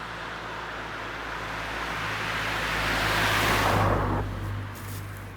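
A car passing by on the road, its tyre and engine noise growing steadily louder to a peak about three and a half seconds in, then falling away quickly.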